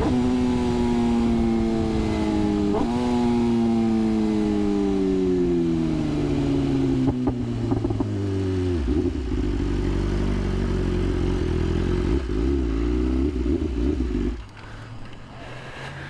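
BMW S1000RR inline-four sportbike engine decelerating, its pitch falling steadily with a brief rise about three seconds in, as from a downshift. It then idles for several seconds and cuts off about fourteen seconds in.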